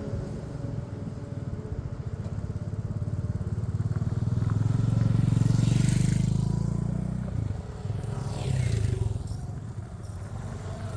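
Motorcycle engine running on the move, its low pulsing note swelling to its loudest about halfway through and then easing off, with brief rushes of air noise over it.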